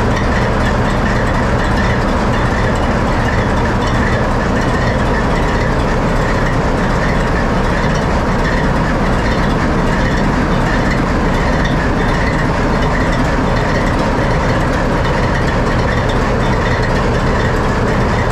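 ALCO 244 diesel prime mover of a 43 class locomotive idling steadily, heard at close range inside the engine room.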